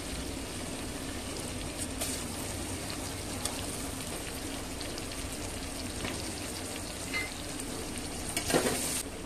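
Raw chicken pieces sizzling as they fry in hot oil with onions and tomatoes in a pressure cooker, with a few light knocks, and a perforated spatula stirring and scraping the pot near the end.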